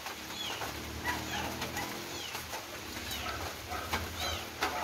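A bird chirping over and over, short high notes that rise and fall, about one a second, over a low steady hum. A few brief crinkles of a plastic bag being handled come through near the middle and near the end.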